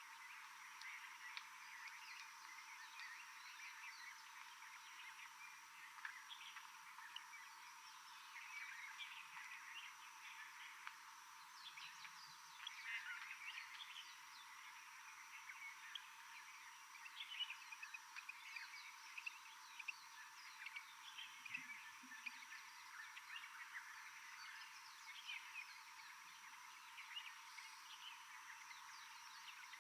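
A faint, dense chorus of many short chirping calls from tropical forest wildlife, over a steady high tone.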